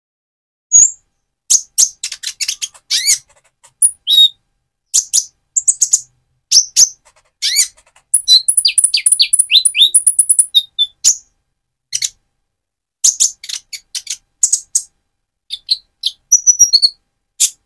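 Purple-throated sunbird (Leptocoma sperata) in spotted juvenile plumage singing: sharp, high chirps in short bursts, with a fast trill of rapid notes about eight seconds in.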